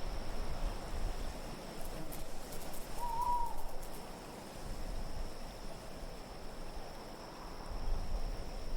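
A single owl hoot, short and slightly arching in pitch, about three seconds in, over a steady bed of wind noise.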